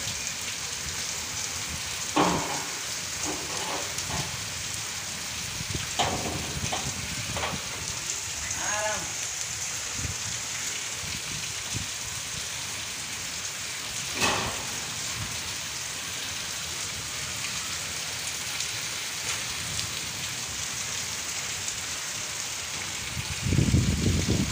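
Heavy monsoon rain falling on a dirt lane and concrete steps, a steady even hiss. A few short sounds stand out over it, and a louder low rumble comes near the end.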